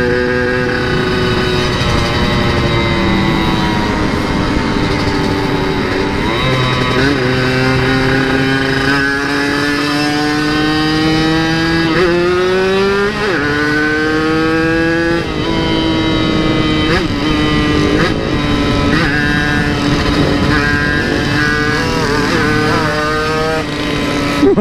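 Yamaha RX-King 135cc single-cylinder two-stroke engine under hard riding. Its pitch climbs through each gear and drops back at gear changes about six, twelve and fifteen seconds in, then rises and falls in short throttle blips near the end.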